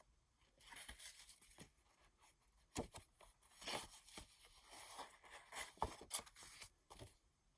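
Faint handling of printed cardstock journaling cards: soft sliding, rustling swishes as cards are moved and turned over, with a few sharp light taps and clicks.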